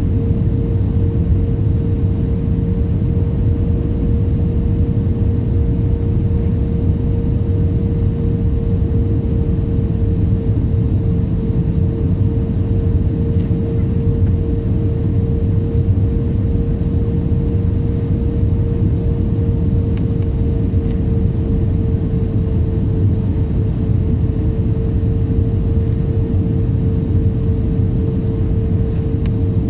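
Steady airliner cabin noise: a deep, even engine rumble with a constant mid-pitched whine over it, heard from inside the passenger cabin.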